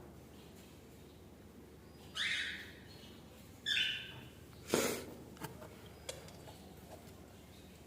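Cockatiels giving two short harsh calls about two and four seconds in, then a sharp knock just before halfway and two faint clicks.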